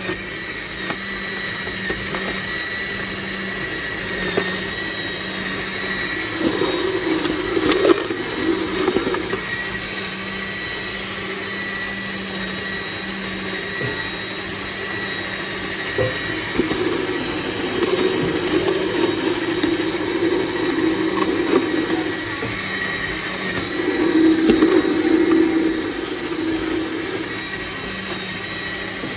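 Cold-press slow juicer motor running with a steady high whine, with three stretches of louder, rougher grinding: about seven seconds in, again from about eighteen to twenty-two seconds, and around twenty-five seconds.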